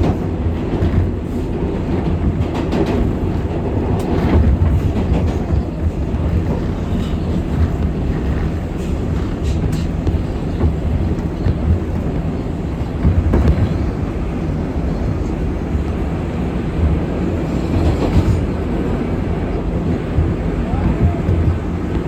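R188 New York City subway train running at speed, heard from inside the car: a steady low rumble of wheels on rail with scattered clicks and knocks from the track.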